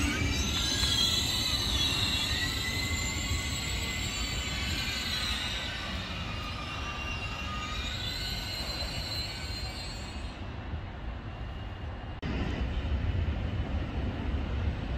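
Train wheels squealing on the rails with a high, wavering squeal over a low rumble, fading away over about ten seconds. About twelve seconds in the sound cuts abruptly to a louder, steady low rumble.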